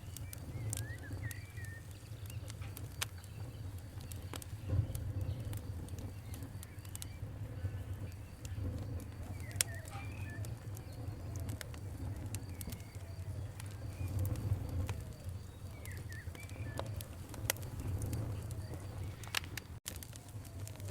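Campfire crackling, with frequent sharp pops over a steady low rumble, and birds chirping now and then. The sound cuts out for an instant near the end.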